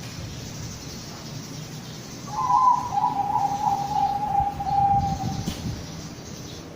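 Zebra dove (perkutut, Bangkok strain) cooing: one rolling, rapidly pulsed coo of about three seconds that starts about two seconds in and slides slightly down in pitch.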